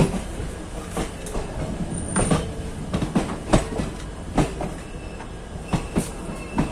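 Passenger train coaches rolling along the track: a steady low rumble with irregular clacks and knocks as the wheels cross rail joints. A faint high wheel squeal comes in near the end.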